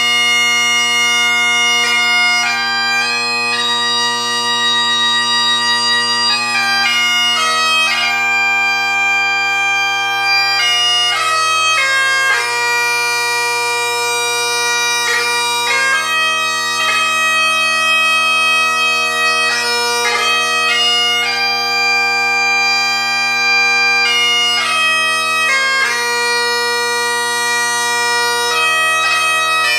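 MacLellan Royal Mexican Ebony Highland bagpipes played: the drones, fitted with Ezee reeds, sound a steady unbroken tone under a tune on a MacLellan blackwood solo chanter, whose notes change with quick grace-note flicks.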